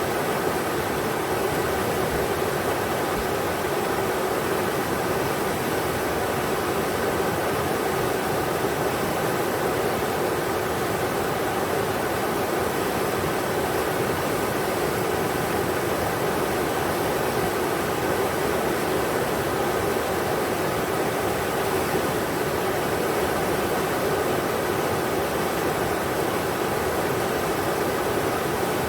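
Englishman River rushing steadily, a constant roar of flowing water with no breaks or changes.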